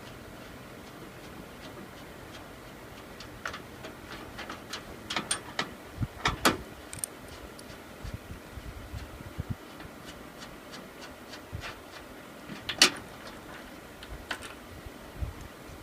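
Scattered clicks and knocks as the cover of a rooftop RV air conditioner is worked loose, with the sharpest knocks about six seconds in and near the end.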